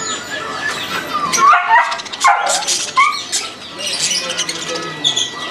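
A dog yipping and whining in short sliding calls, with birds chirping high over it.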